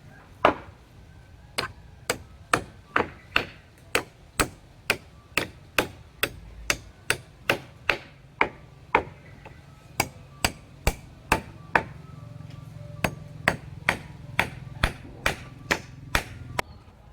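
A hand tool striking over and over, sharp blows at about two a second, with a brief pause a little past the middle.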